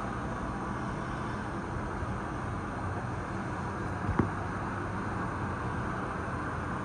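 Gondola cabin riding along its cable, a steady rumble and hiss heard from inside the cabin, with a single sharp knock about four seconds in.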